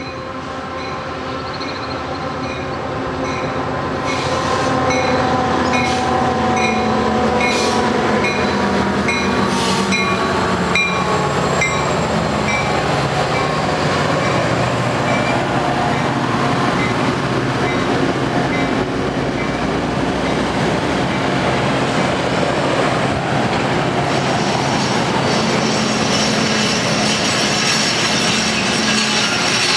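A train approaching and passing, growing louder over the first five seconds and then a steady loud rumble. A regular ding repeats for the first half, and the engine note drops in pitch in the middle as it goes by.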